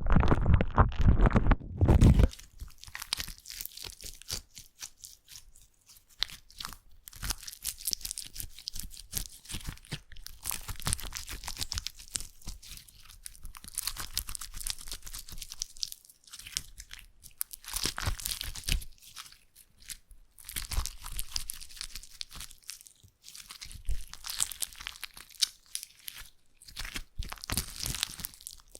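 Slime being worked by hand close to the microphone: a loud, low squish in the first two seconds, then dense fine crackling and popping in bursts, pausing briefly between handfuls.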